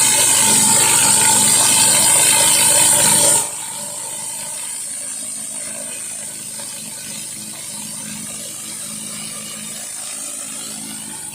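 Pressure washer driving a 16-inch Whisper Wash surface cleaner over concrete: a steady hiss of spraying water over machine noise. The sound drops suddenly to a quieter level about three and a half seconds in and carries on steadily.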